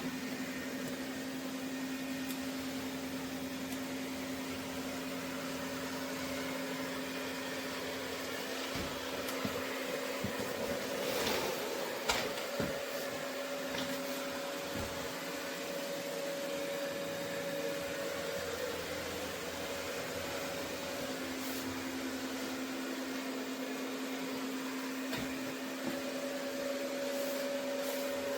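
ECOVACS Deebot X9 Pro Omni robot vacuum running: a steady motor hum holding two tones, with a few clicks and knocks from about 9 to 15 seconds in.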